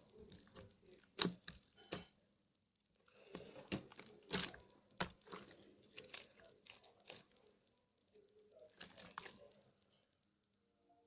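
Slime being squeezed and stretched by hand, giving irregular clusters of sticky clicks and crackling pops, with two short pauses.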